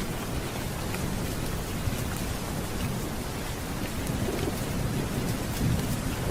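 Steady heavy rain with a low rolling rumble of thunder that swells in the second half.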